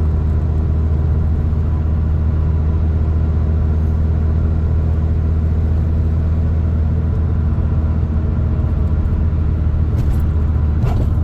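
Hyundai Getz engine running steadily at a constant cruising speed, a steady low hum with road noise under it.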